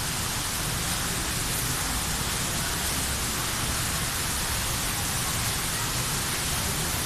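A steady rushing noise with no distinct events, even across low and high pitches.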